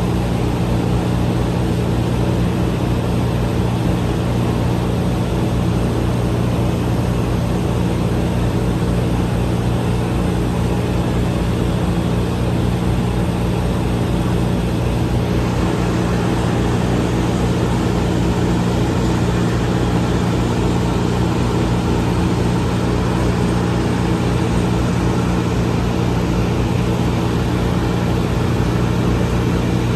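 Large engine running steadily at one even speed, a loud constant drone with no revving.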